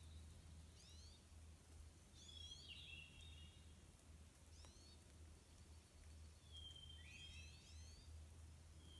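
Near silence with faint songbird calls: several short high chirps and thin whistles scattered through, over a faint low steady hum.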